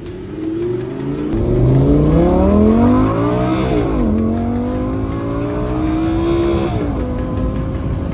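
Lamborghini Gallardo V10 engine accelerating hard, its note rising through the revs, dropping at an upshift about four seconds in, climbing again, then dropping at a second upshift near the end and settling to a steady cruise.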